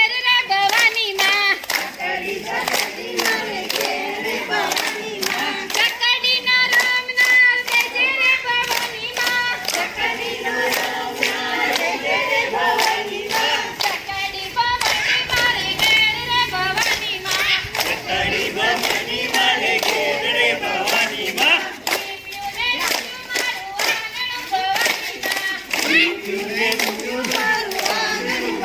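A group singing a garba song together, with steady rhythmic hand claps keeping the beat.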